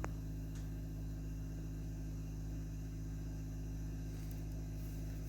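A steady low hum made of several tones, with one sharp click right at the start.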